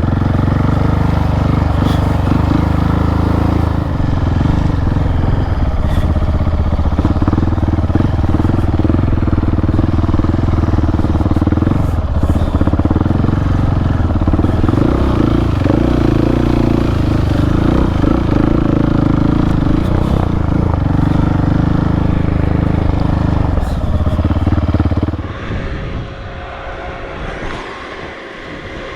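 Single-cylinder adventure motorcycle engine running steadily while riding, heard close from the bike. About 25 seconds in it falls away sharply, leaving a quieter hiss.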